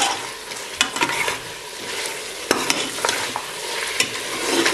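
Beef and spice masala sizzling in oil in a pressure-cooker pot while a metal spoon stirs it, with several sharp knocks and scrapes of the spoon against the pot. This is the bhuna stage, the meat frying in its oil over raised heat.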